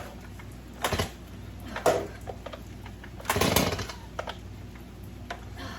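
Chainsaw's recoil starter cord yanked three times, a short rasp with each pull, the third longer and the loudest; the engine does not catch.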